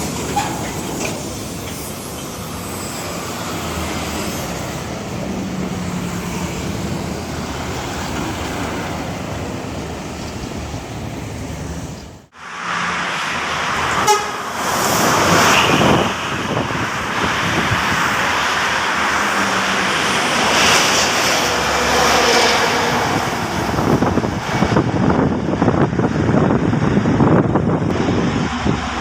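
Heavy trucks running and passing on a road, with a vehicle horn sounding. The sound drops out briefly about twelve seconds in, then returns louder.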